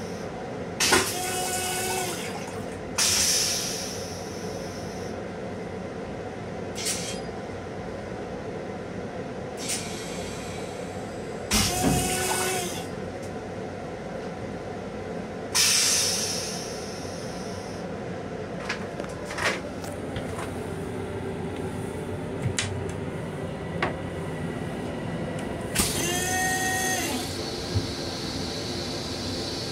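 Long Island Rail Road M7 electric train running, heard inside its small restroom as a steady rumble. Several sudden hisses of a second or two break in, some with a brief squealing tone.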